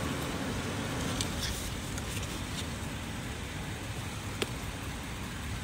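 Low rumble of a car engine running close by, easing off over the first couple of seconds, under light handling noise of tools going into a soft tool bag, with one sharp click a little over four seconds in.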